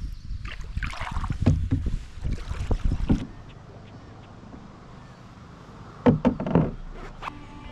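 A Wenonah Prospector 15 canoe being paddled: splashy water noise from the paddle strokes with sharp knocks of the paddle against the hull. It is louder for the first three seconds, then quieter, with another cluster of knocks about six seconds in.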